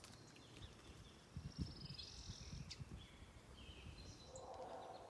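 Faint outdoor birdsong: several small birds chirping and trilling in short, scattered calls over quiet background noise, with a few soft low thumps about a second and a half in.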